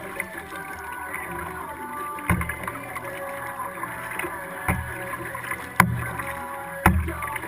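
Kayak moving on the water, heard through a camera mounted on the hull: steady water sloshing with four dull knocks spread through the stretch.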